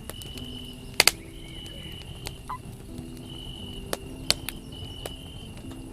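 Campfire crackling, with sharp pops from the burning wood at irregular times; the loudest is a quick double pop about a second in. Behind it, a high, even trill repeats in stretches of about a second.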